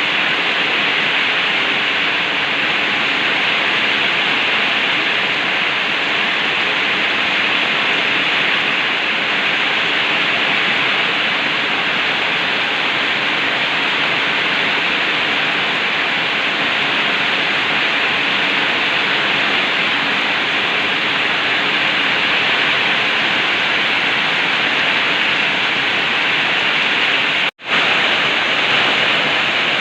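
Heavy rain pouring down steadily, a dense even hiss. It cuts out for an instant near the end.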